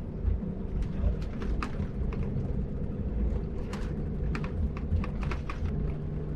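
Cabin of a moving Scania-chassis double-decker coach: a steady low engine and road rumble, with irregular light clicks and ticks throughout.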